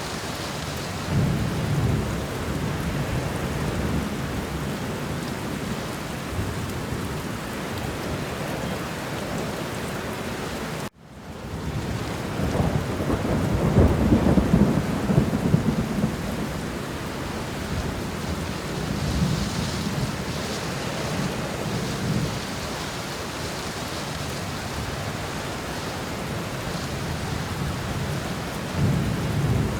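Steady rain with rolling thunder swelling in and out. Just past a third of the way in, the sound cuts out for an instant and fades back in, then a longer, louder roll of thunder builds.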